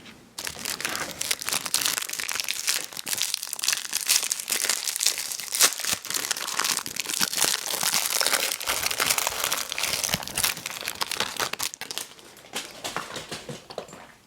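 Candy packaging crinkling continuously as it is handled, a dense fast crackle that starts abruptly and thins out near the end.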